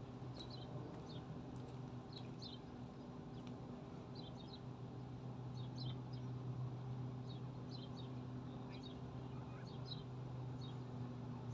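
Small birds chirping, short high chirps scattered throughout, over a steady low hum.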